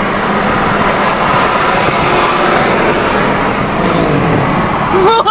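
Steady, loud road and traffic noise heard from a car driving in city traffic, with an engine note falling in pitch about four seconds in.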